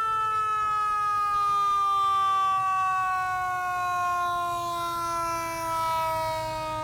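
A siren winding down: one long tone that falls slowly and steadily in pitch.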